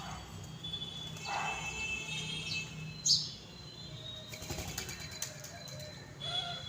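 Small birds chirping, with a loud sharp chirp about three seconds in, and a quick flurry of wingbeats about a second later.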